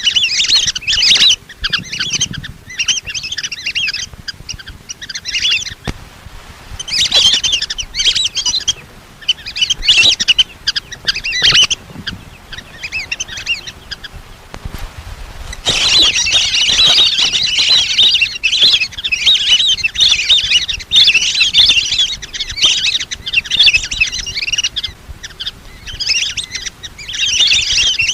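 Lesser whistling ducks calling, a recorded lure call: rapid high chattering whistles in bursts a second or two long, running together in one long unbroken stretch past the middle.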